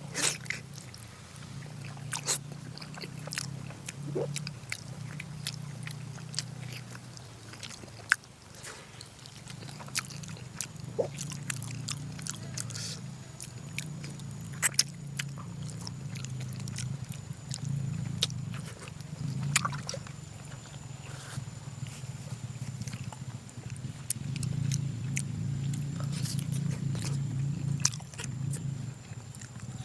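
Close-miked chewing of braised pork, a steady pulsing munch with scattered sharp clicks throughout.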